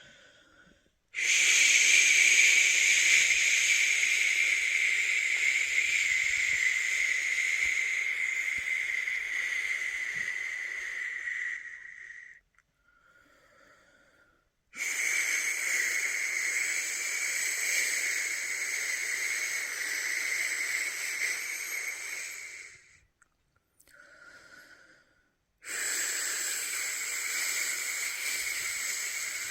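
A person making a long, steady 'shhh' shushing sound to soothe a newborn to sleep. One shush runs about eleven seconds and another about eight, with short pauses between them holding a faint in-breath; a third shush begins near the end.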